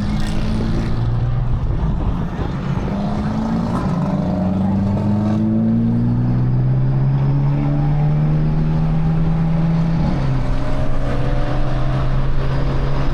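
Car engine running under acceleration over a constant low rumble, its pitch rising slowly for several seconds and then holding. About ten seconds in the pitch drops suddenly, then steadies again.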